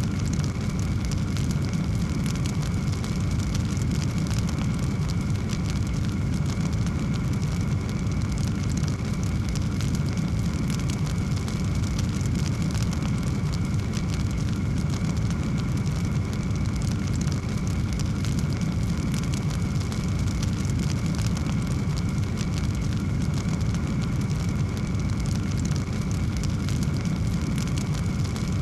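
Fireplace fire burning with a steady low rumble and many small, quick crackles throughout.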